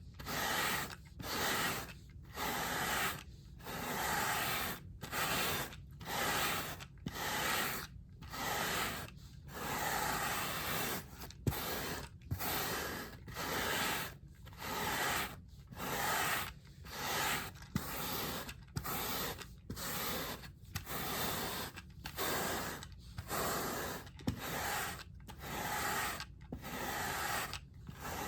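Carpet brush scrubbed over a rug in rhythmic strokes, about one a second, each a scratchy rasp with a short pause between.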